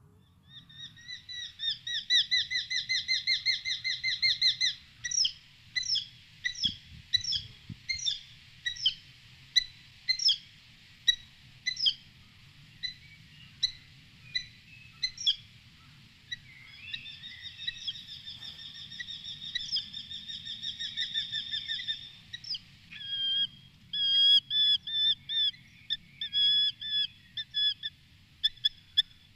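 A bird calling. It starts with a fast trill lasting about four seconds, then gives single notes about once a second. A second long trill follows, then quicker repeated notes about twice a second near the end.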